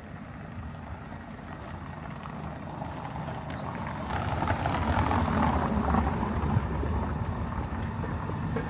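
A motor vehicle passing close by: a rumble with a rushing noise that swells about four seconds in and eases off slightly near the end.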